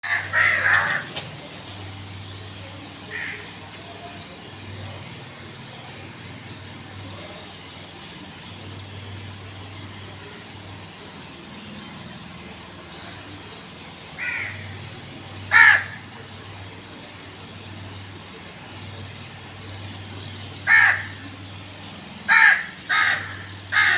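A crow cawing in short harsh calls: a quick burst at the start, scattered single caws, then a run of four near the end. A low hum runs underneath.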